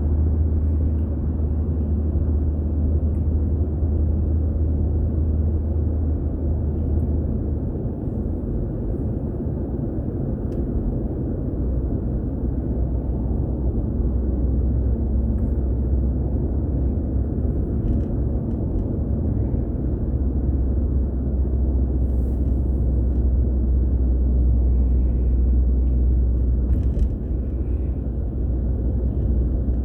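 A car driving along: a steady low rumble of road and engine noise. The deep drone drops slightly in pitch about eight seconds in.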